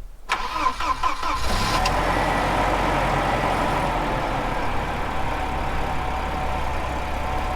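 Volvo 940's 2.3-litre four-cylinder engine cranked by the starter, catching after about a second and settling into a steady idle.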